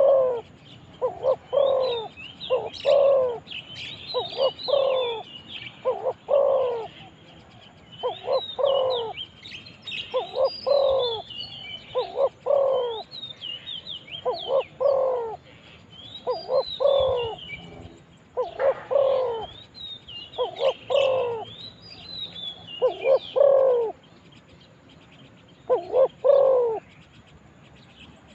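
Spotted dove cooing, a repeated low phrase about every one to two seconds that breaks off near the end, with small birds chirping high above it.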